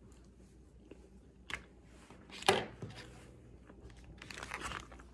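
Quiet chewing of a bite of crisp-skinned smoked chicken, with a sharp click about two and a half seconds in and a crackly rustling stretch near the end.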